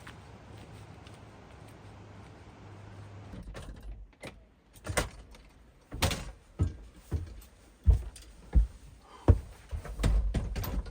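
A few seconds of steady low hum, then about a dozen irregular knocks and thuds, like a door being opened and shut and gear being set down.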